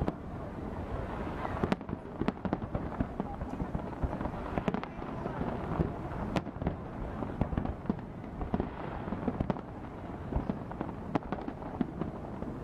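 Aerial firework shells bursting in an irregular string of sharp bangs, often two or three a second, over a steady murmur of crowd voices.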